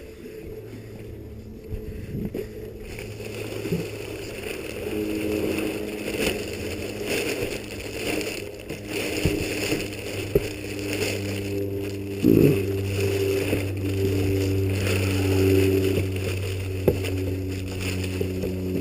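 A motor running with a steady low hum that grows louder partway through, with a few short knocks over it.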